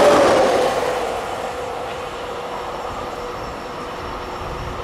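Train running past and drawing away: its rolling noise fades over the first second or so, leaving a fainter, steady rail rumble with a faint whine.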